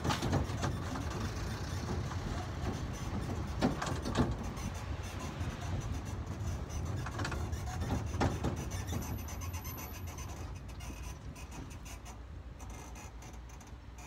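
Low rumble of an open-sided tourist train carriage in motion, with a few sharp knocks and rattles; the running noise grows quieter near the end.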